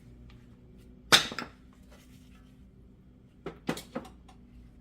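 Metal brake parts being handled on a front disc brake caliper: one sharp scrape about a second in, then a few lighter clicks near the end.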